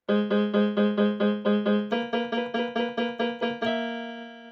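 Intro music: a keyboard plays short repeated chords, about four a second, moving to a new chord about two seconds in. It ends on a held chord that slowly fades.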